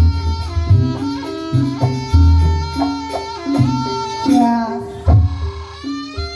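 Live traditional dance-troupe music: a reedy wind instrument plays a sustained, wavering melody over heavy, repeated drum beats.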